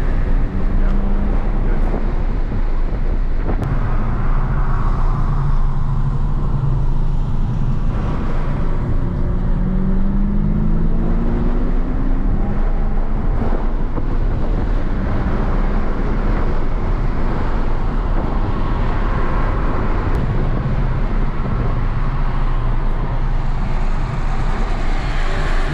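BMW engine under load and road noise heard from inside the cabin of a car lapping a race track, a steady low rumble with the engine note rising and falling as the driver accelerates and eases off.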